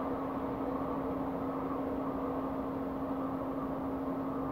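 Steady drone of railway vehicles standing idle in the station, their on-board machinery running with one constant low hum and no change in pitch.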